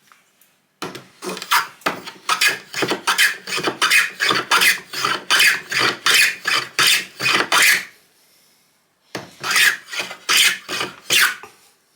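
Wood rasp worked back and forth over an ash hammer handle, flattening its sides, in quick even strokes of about three a second. The strokes stop for about a second, then a few more follow near the end.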